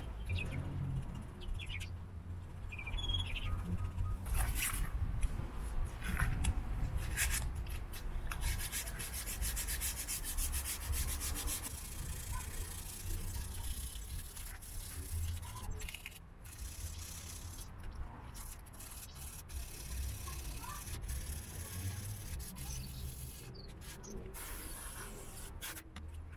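Rubbing and scraping with scattered clicks and knocks over a low rumble. About a third of the way in comes a few seconds of fast, even rasping strokes.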